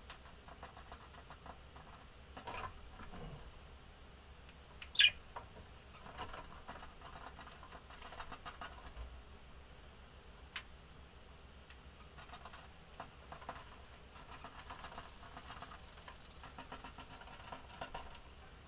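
Pet budgerigars moving about, making scattered light scratching and tapping sounds, with one short, sharp budgie chirp sweeping downward about five seconds in.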